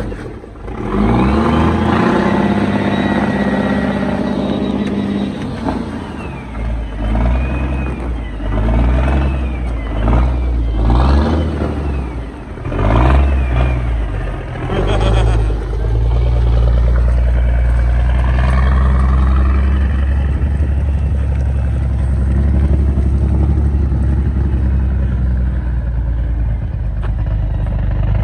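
Engine of the vehicle hauling a fire truck on a long trailer, pulling away, its note rising and falling in steps.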